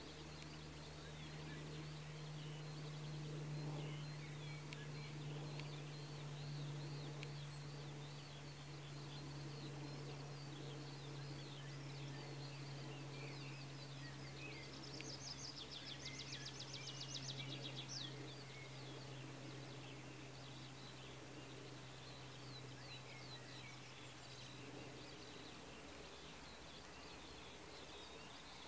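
Faint birds chirping and calling, with a rapid trill about halfway through, over a steady low hum that fades out near the end.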